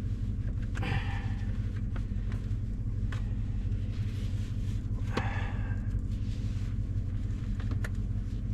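Chevy Silverado's V8 idling with a steady low rumble while it warms up from a cold start. Two short scuffling noises come through about a second in and again about five seconds in.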